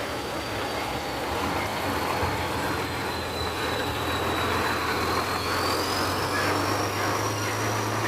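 Howo heavy truck engine running with a steady low hum that gets louder a couple of seconds in, under a thin high whine that dips and then rises about halfway through.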